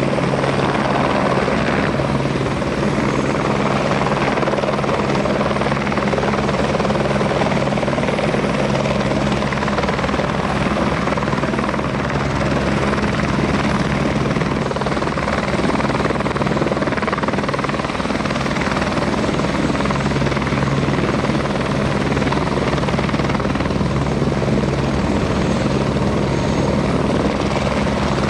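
Airbus Helicopters AS350 helicopter running steadily: even turbine-and-rotor noise with a steady low hum, no change in pitch or loudness.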